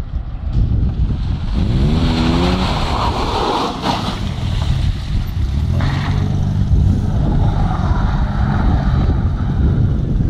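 Ford Sierra engines running and revving as cars drift on asphalt. One engine climbs sharply in revs about two seconds in, with a hiss of tyre squeal. From about halfway on, an engine holds a steady drone.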